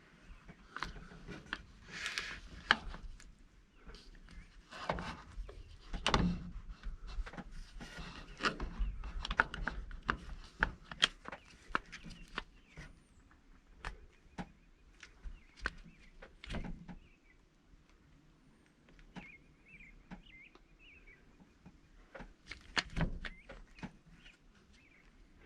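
Scattered knocks, clicks and rustling of close handling noise, irregular and busiest in the first half, with a few faint bird chirps later on.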